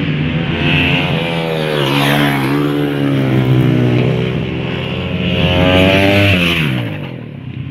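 Honda CRF450 supermoto's single-cylinder four-stroke engine revving hard under throttle. It dips briefly about two seconds in, climbs again, then drops in pitch as the bike passes close and moves away near the end.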